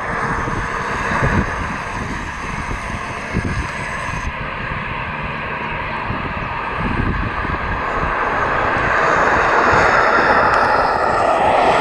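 Airplane engines running: a steady rushing noise that grows louder over the last few seconds.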